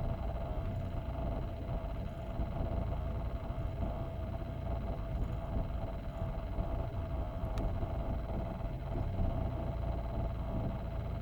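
A car running steadily: a low rumble with a constant whine above it.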